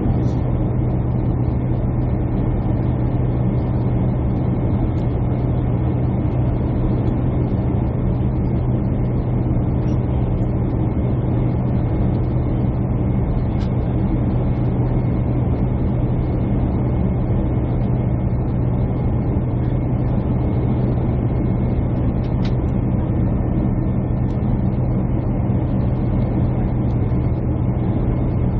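Steady jet airliner cabin noise: an even engine drone with a strong low hum under a broad rush of air, unchanging throughout.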